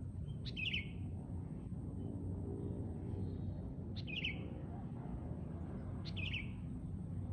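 Sooty-headed bulbul (kutilang) calling three times, each a short bubbly phrase a few seconds apart, over a steady low background rumble.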